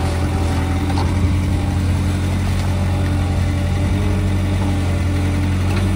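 Skid steer engine running at a steady speed, a loud, even hum that holds one pitch.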